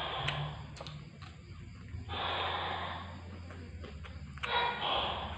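A man's loud, hissy breaths through the mouth while eating, one about every two seconds, with small clicks of chewing between them.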